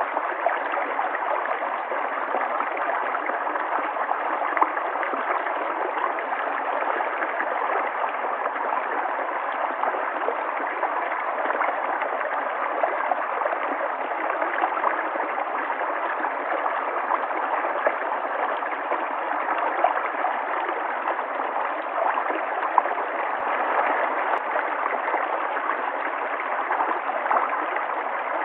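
River water flowing and gurgling steadily, with small splashes throughout.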